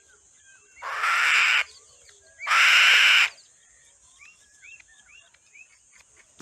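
A bird gives two harsh, rasping screeches, each under a second long and about a second apart. Faint chirps of small birds and a steady high hiss sit underneath.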